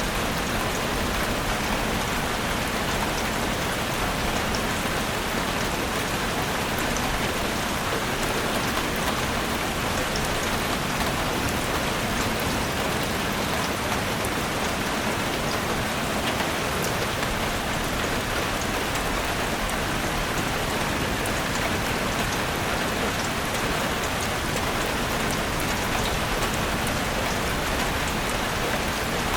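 Steady rain falling on foliage and ground, an even hiss with many small drop patters and no let-up.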